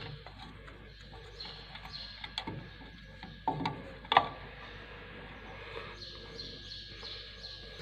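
A few light clicks and knocks from drum brake shoe parts being handled, with faint bird chirps in the background.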